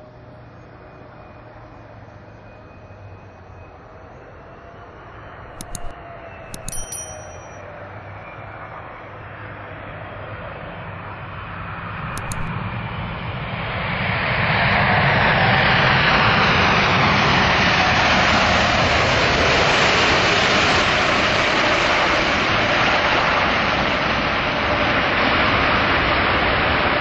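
Jet airliner's engines heard as the aircraft comes close: a faint whine with sliding pitch swells into a loud, steady rushing noise from about halfway through. A few brief sharp high clicks come in the first half.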